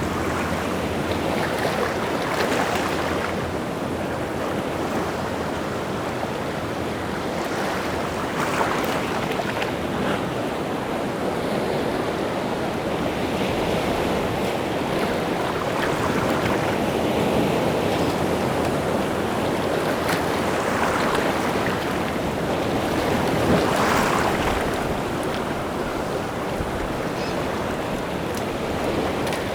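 Rough sea waves breaking and washing on the shore in a steady roar, with a wave crashing louder every few seconds, stirred up by strong wind.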